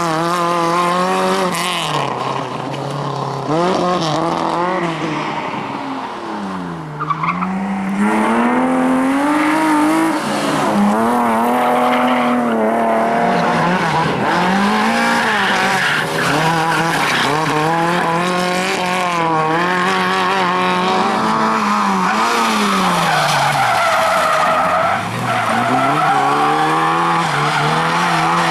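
Rally car engine worked hard, its pitch repeatedly climbing and dropping with gear changes and lifts off the throttle, with tyres skidding and squealing as the car drifts through corners.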